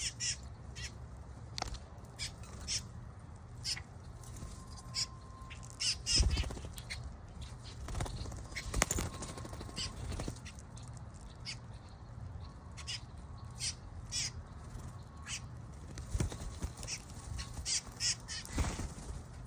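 Several birds calling: many short, high chirps in quick, irregular succession, with a few low thumps about six seconds in, around nine seconds and near the end.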